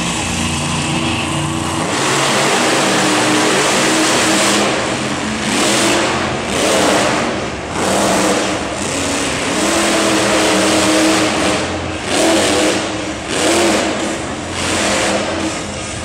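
Monster truck engines revving hard in repeated throttle surges, about one a second, during a head-to-head race. Background music is heard at first and is covered by the engines about two seconds in.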